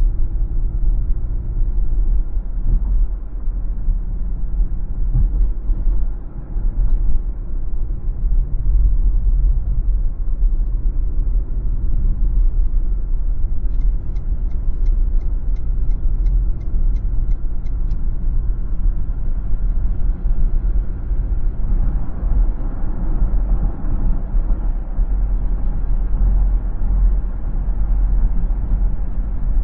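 Car driving along a city road, a steady low rumble of engine and tyre noise. Midway there is a run of light ticks about twice a second for a few seconds.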